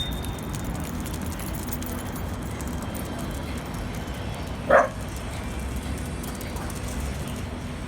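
A dog barks once, sharply, about halfway through, over a steady low background rumble.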